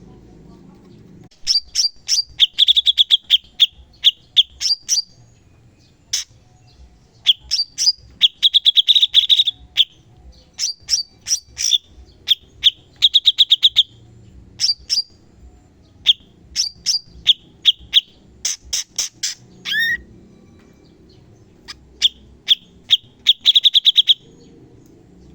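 A cucak cungkok singing rapid 'tembakan' bursts: quick runs of sharp, piercing chirps and trills, in phrases one to two seconds long separated by short pauses.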